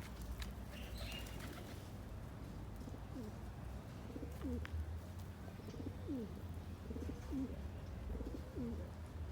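A bird giving short, low calls that fall in pitch, about half a dozen from a few seconds in, over a steady low rumble.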